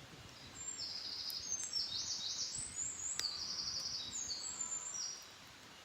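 A wild songbird singing a long, high song of trilled and sweeping phrases, starting about a second in and stopping near the end. A single sharp click comes about halfway through.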